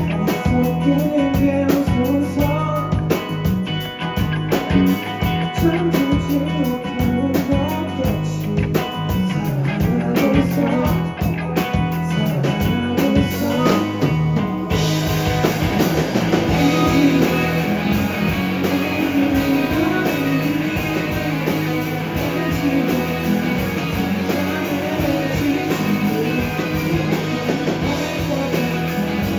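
A live rock band playing the song, with electric guitar and drum kit over a steady bass line; about halfway through, the sound turns fuller and brighter.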